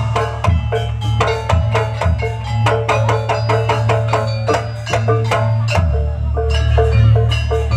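Jaranan (kuda lumping) dance music: a quick, even rhythm of struck metal mallet percussion, gamelan-style, with drum strokes over a steady low bass.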